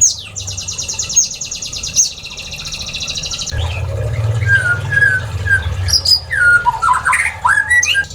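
Aviary birds calling. A rapid, high rattling trill lasts about two seconds, then comes a series of separate whistled notes and varied chirps. A low hum runs underneath from about halfway.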